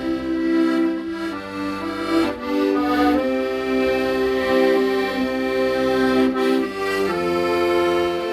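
An accordion playing a slow melody in long held notes over sustained chords and bass notes, the notes changing about every second.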